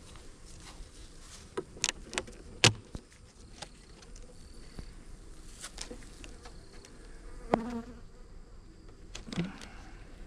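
Honeybees buzzing steadily around an open hive, with a handful of sharp clicks and knocks from the hive being handled, the loudest about three seconds in.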